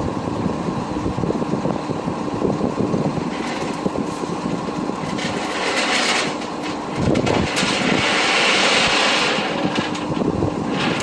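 Tow truck on the move: steady engine and road noise. A louder rushing hiss lasts about two seconds past the middle.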